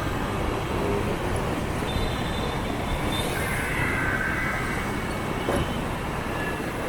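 City motorbike traffic heard from a moving scooter: a steady mix of small engines, tyres and wind, with a faint short tone or two partway through.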